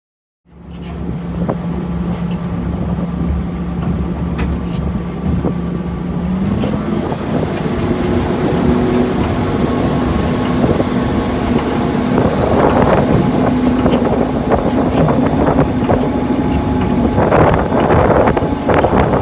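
Rolls-Royce diesel engine of a Sentinel shunting locomotive, heard from the cab, running with a steady note that steps up in pitch about six seconds in as the engine picks up. Clicks and knocks come through, along with a rushing noise that grows louder towards the end.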